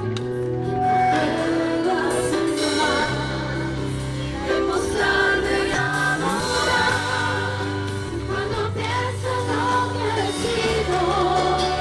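A group of voices singing a Christian worship song over instrumental accompaniment with steady bass notes.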